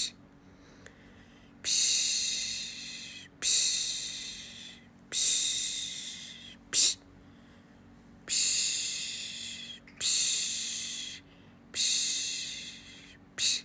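A woman's voice shushing a baby to sleep with long 'psh' sounds, about one every one and a half to two seconds, each fading away. Short, sharp 'psh' sounds fall between them twice.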